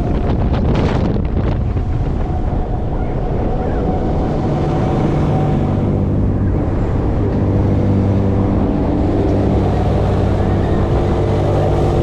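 Fairground ride machinery running with a steady hum that grows stronger and more even partway through, while wind buffets the microphone, hardest early on.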